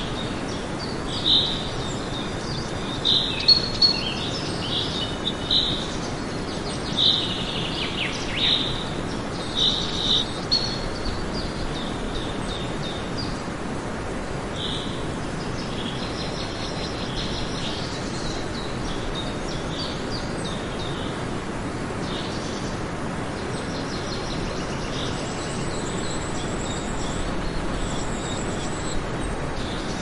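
Birds chirping in short high calls over a steady outdoor hiss. The chirps come thick in the first ten seconds or so, then thin out to a few scattered ones.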